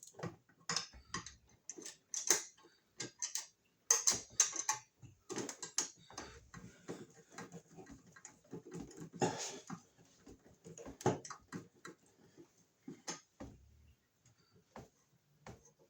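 Irregular small clicks and scrapes of a screwdriver working the mounting screws of an electrical outlet and its metal wiremold box.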